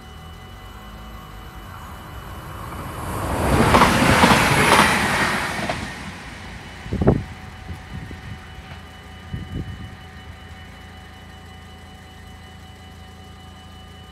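A train passing through a Dutch level crossing, its rush and rumble swelling and fading over about three seconds, with a sharp thump about seven seconds in. The crossing's warning bells ring steadily throughout.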